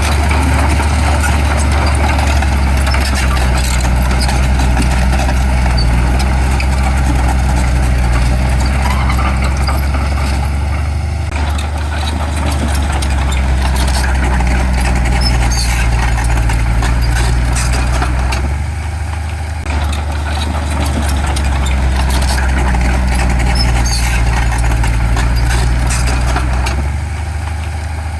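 Heavy diesel engine of earthmoving machinery running steadily with a deep, even hum. It eases off briefly twice, a little before 19 s and near the end.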